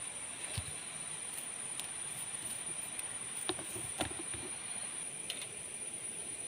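Steady high-pitched insect drone from the forest, with a few soft knocks and clicks about half a second, three and a half and four seconds in.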